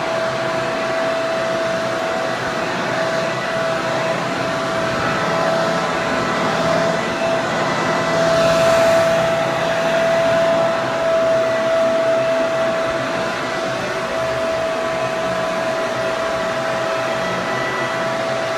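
Hair dryer running continuously: a steady rush of air with a constant whine from the motor, briefly a little louder about eight seconds in.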